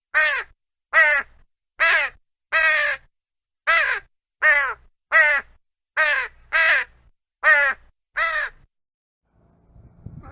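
A bird calling over and over: about a dozen short calls, each falling in pitch, about one a second, stopping shortly before the end.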